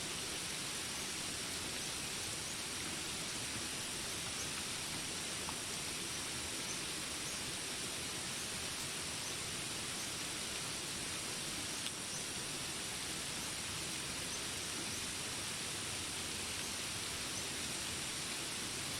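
Steady hiss of rain in a jungle ambience, with faint high chirps repeating about once a second.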